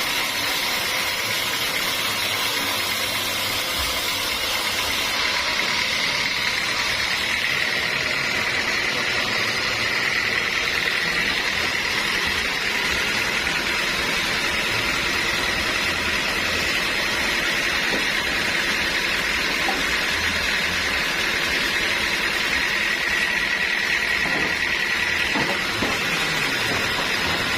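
Band sawmill running steadily with a continuous high whine, sawing through dense acacia wood.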